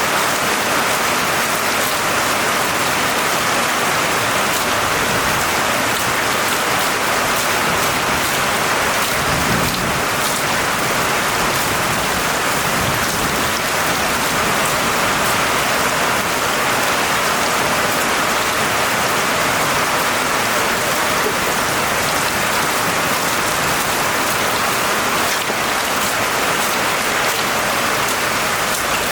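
Steady, dense rainfall pattering on surfaces. About ten seconds in, a faint low rumble of distant thunder rises briefly under the rain.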